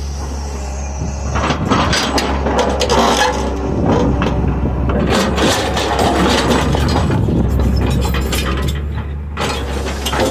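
Excavator's diesel engine running steadily while the bucket scrapes and rock clatters and cracks, loudest from about a second and a half in until near the end.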